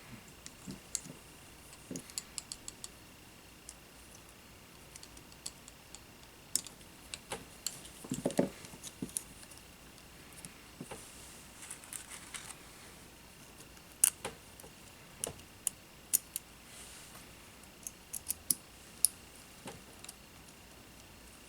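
Small tools and drone-frame parts being handled on a workbench: scattered light clicks and taps, with a duller knock about eight seconds in and a few sharper clicks later on.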